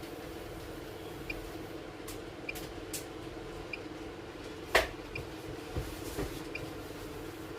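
BiPAP machine's blower running with a steady hum, with faint short high pips repeating about once a second and scattered light clicks, one sharp click louder than the rest about two-thirds of the way through.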